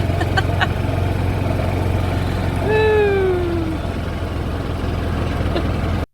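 Vehicle engine running with a steady low rumble and a few light clicks, and a falling pitched tone lasting about a second, about three seconds in. The sound cuts off abruptly near the end.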